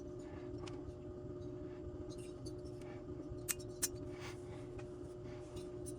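Light clicks and taps of small metal engine parts being handled on the bench, two sharper clicks about three and a half seconds in, over a steady low hum.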